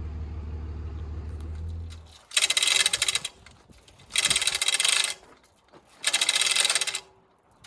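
A vehicle engine's low hum stops about two seconds in. Then a chain hoist rattles and clicks in repeated bursts of about a second each, roughly every two seconds, as its chain is worked stroke by stroke to move the heavy cast-iron milling machine hanging from it.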